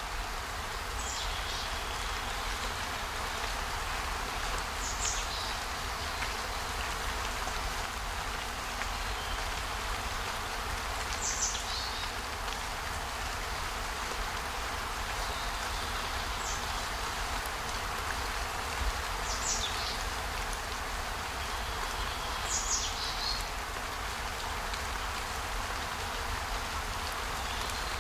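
Outdoor nature ambience: a steady, even hiss with short high chirps every few seconds.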